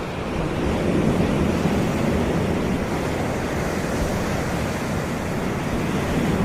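Caribbean sea surf washing steadily onto a beach, a continuous rushing wash that swells about a second in and again near the end, with a low rumble underneath.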